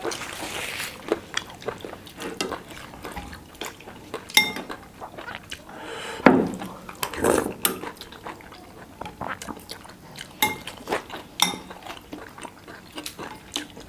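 Spoons and forks clinking against plates and bowls in scattered sharp clicks.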